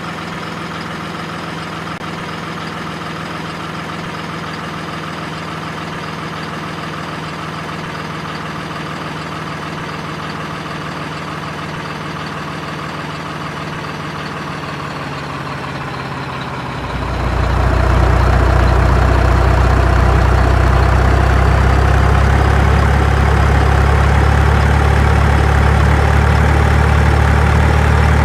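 An engine running steadily at idle, then louder with a stronger low rumble from about 17 seconds in.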